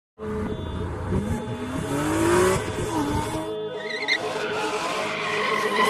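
A car engine revving, its pitch climbing and falling twice, mixed with background music.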